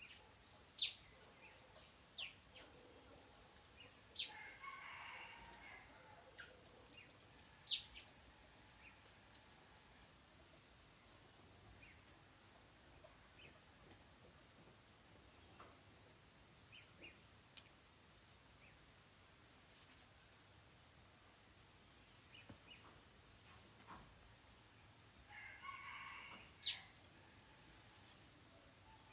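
Morning nature ambience: a steady, high-pitched pulsing insect trill, with sharp bird chirps a handful of times and two longer, lower bird calls, one about five seconds in and one near the end.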